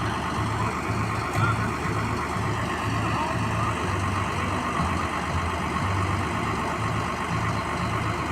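Large vehicle's diesel engine idling steadily, a low even rumble, with faint voices in the background.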